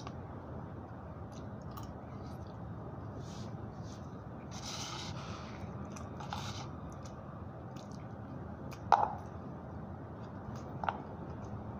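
Close-up eating noises: a man chewing a spoonful of macaroni, with a few short breathy mouth sounds and two sharp clicks, about nine seconds in and near the end, over a steady background hum.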